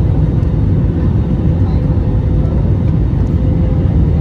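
Airbus A321 cabin noise: a steady, loud low rumble of the jet engines and airflow, with a faint steady hum.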